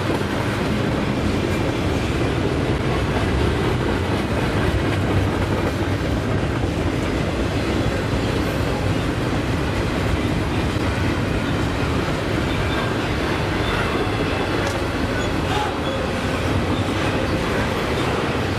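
Double-stack container train's loaded well cars rolling past at close range: a steady, continuous rumble of steel wheels running on rail.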